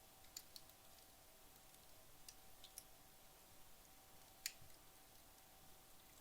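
Faint, sparse crackles and pops from wood logs burned down nearly to embers in a fireplace, about half a dozen sharp clicks with the loudest about four and a half seconds in, over a faint steady hum.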